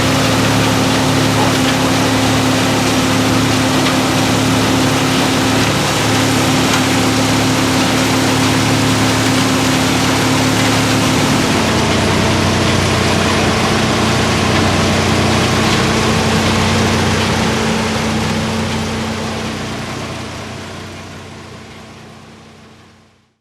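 A heavy equipment engine running steadily, its pitch stepping down slightly about halfway through, then fading out over the last several seconds.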